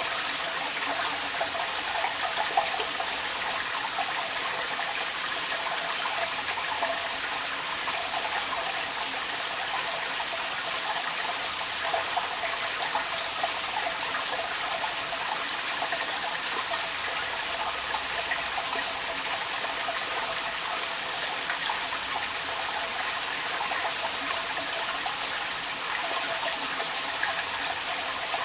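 Rainwater running out of a downpipe, a steady splashing trickle, with raindrops pattering around it.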